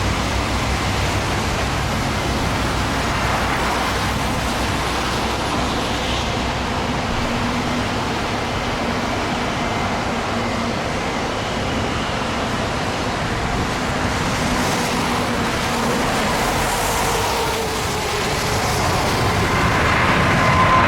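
Boeing 787-9 Dreamliner's jet engines at takeoff power: a steady roar with a rushing hiss, growing louder over the last few seconds.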